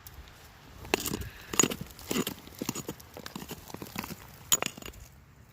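Irregular knocks and clicks of a broken-off quartz and sulfide rock sample being handled, the loudest about a second and a half in and near the end.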